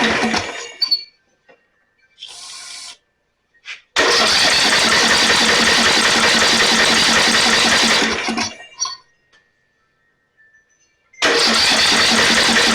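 Electric starter cranking a 12.5 hp Briggs & Stratton riding-mower engine in long bursts of several seconds, with pauses between, without it catching; the engine is thought to be flooded. A short hiss comes between the first two bursts.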